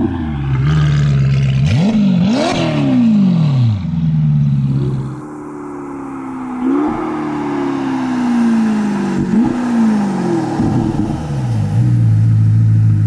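Ferrari Portofino M's twin-turbo V8 through a Novitec stainless-steel sport exhaust. It runs steadily, is blipped twice quickly about two seconds in, then its note falls slowly with two sudden jumps back up, and it settles to a steady low note near the end.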